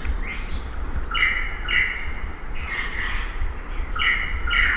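Birds singing: short repeated phrases of clear notes, several sliding down in pitch, recurring every second or so over a steady low rumble.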